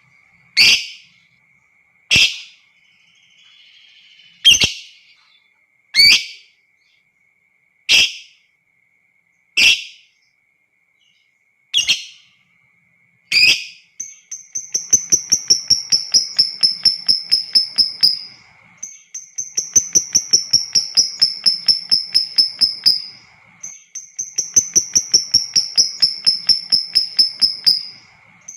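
Lovebird calling: a sharp, single shriek every second or two for the first half, then three long, rapid chattering trills of about four seconds each with short breaks between them, the long 'ngekek' song prized by lovebird keepers. A faint steady high whine runs underneath.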